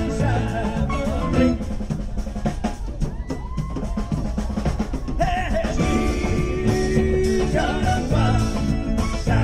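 Live rock band playing an instrumental passage with a drum kit prominent. The music thins for a few seconds after the first second and a half, then fills back in at about five seconds.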